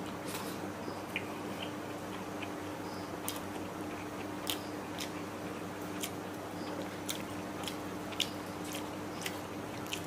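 A person chewing mouthfuls of fried rice mixed with thin curry, with many short, sharp mouth clicks scattered throughout, over a steady low hum.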